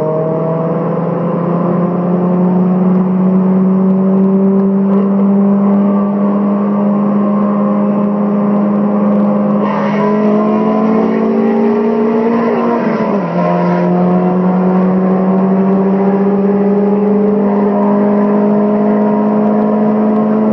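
Turbocharged Honda H22 four-cylinder engine at full throttle, heard from inside the car, its pitch climbing slowly through a long high-speed pull. About two-thirds of the way through there is one upshift: the pitch drops and then starts climbing again. A hiss joins for a few seconds around the shift.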